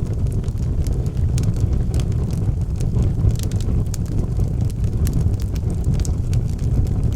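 Wood fire burning in a fireplace: a steady low rumble of flames with frequent small, sharp crackles and pops from the burning logs, scattered irregularly.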